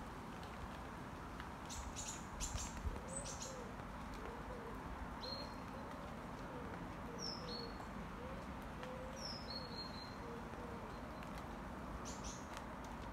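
Birds calling over a steady outdoor background hum: a few short, high, falling chirps, and a pigeon cooing softly in a repeated low phrase. A few sharp clicks come about two to three seconds in.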